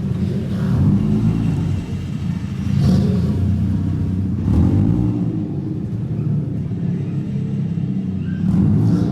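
Car engines running at low speed as cars roll in, a steady deep rumble with several brief swells of throttle.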